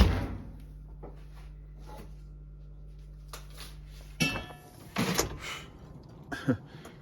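A few scattered knocks and clatters of things being handled, over a steady low hum that cuts off about four seconds in.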